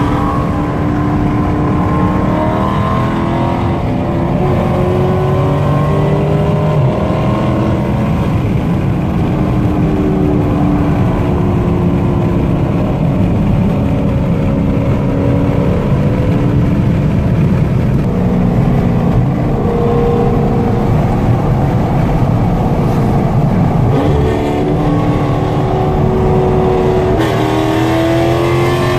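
Dodge Charger and Challenger engines running at highway speed, their pitch drifting up and down with the throttle and climbing near the end, over a steady rush of road and wind noise.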